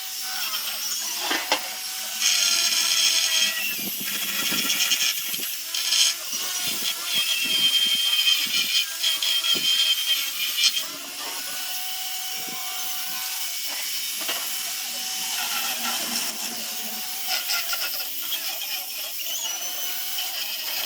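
Handheld power sanding tool abrading zelkova root wood during rough sanding: a steady motor whine with a harsh rasping. The rasping is loudest and most broken up for the first half, where the tool bears hard on the wood, then lighter and steadier.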